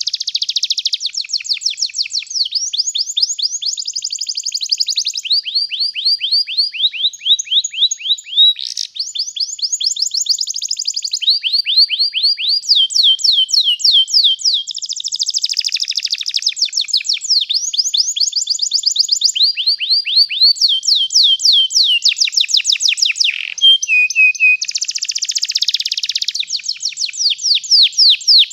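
Canary singing a long, unbroken rolling song of rapid high trills, switching to a new trill every second or two.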